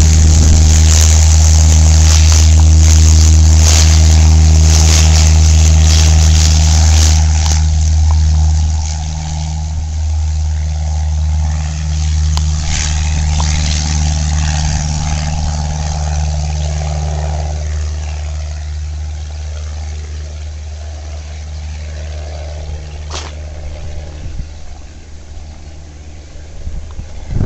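Small propeller plane's piston engine at full power on takeoff, a loud steady drone that holds its pitch, then fades gradually after about eight seconds as the plane climbs away. Wind noise on the microphone early on.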